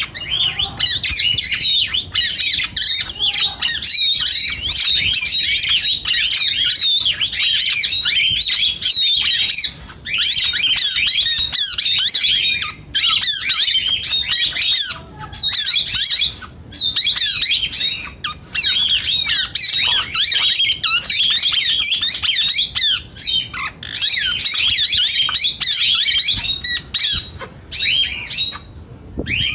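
Plum-headed parakeets chattering: loud, rapid, high-pitched warbling and chirping calls that run almost without pause, broken by a few brief gaps.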